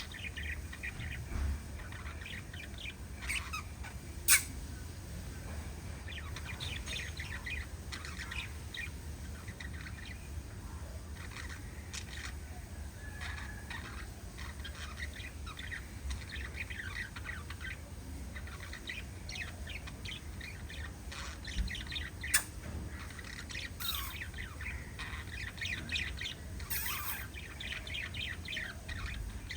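A small flock of pet budgerigars chirping and chattering without pause, with the odd squawk. Two sharp taps stand out, one about four seconds in (the loudest sound) and another a little past twenty seconds.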